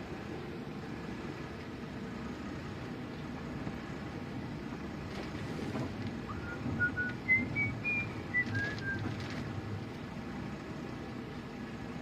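A short whistled phrase of about nine clear notes, climbing and then falling in pitch, over the steady low rumble of a boat's engine.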